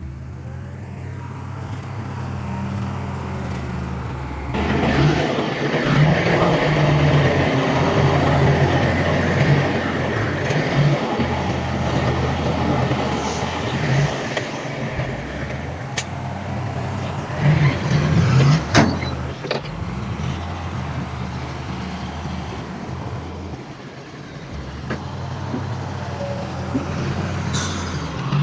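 Heavy diesel earthmoving machinery running steadily, its engine noise growing busier and louder about four seconds in, with a couple of sharp clanks past the middle.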